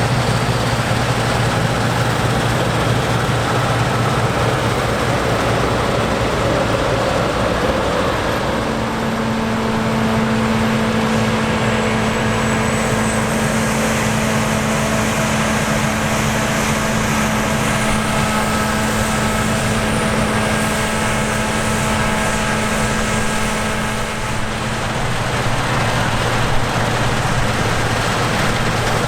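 Heavy harvest machinery engines running steadily, a low diesel hum throughout. A second, higher engine note joins about nine seconds in and holds until a few seconds before the end.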